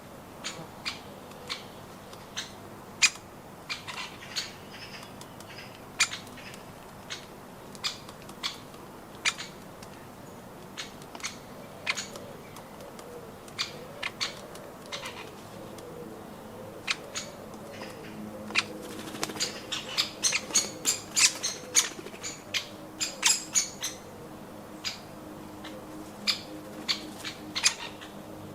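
Woodpeckers pecking at nuts: irregular sharp taps, one or two a second, with a quick flurry of taps a little past the middle.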